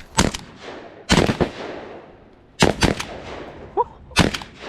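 Shotguns firing rapidly from several hunters at flushing pigeons: about eight sharp shots in quick pairs, a cluster every second or so, each shot echoing briefly.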